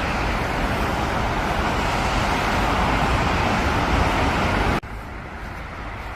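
Steady roar of road traffic passing close by, swelling slightly, then cutting off suddenly about three-quarters of the way through to a much quieter background hum.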